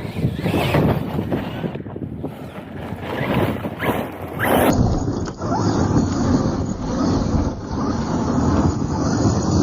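Radio-controlled Team Corally Asuga XLR truck running on 6S power, its brushless motor whining up in a few rising sweeps over rumbling tyre and wind noise on the microphone. About halfway through, the sound switches abruptly to a steadier rumble with wind.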